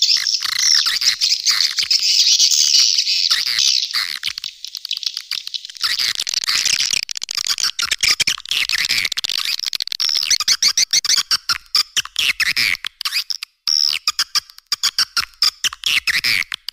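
Swiftlet lure-call recording: a loud, dense chorus of high, rapid twittering chirps. It is fairly continuous for the first few seconds, then turns choppy, with quick bursts and short gaps.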